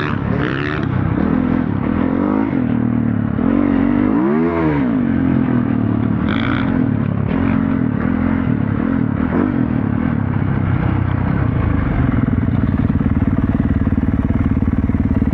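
Motorcycle engine running on the move, its pitch rising and falling as it revs about four seconds in, then holding a steady pulsing note from about twelve seconds.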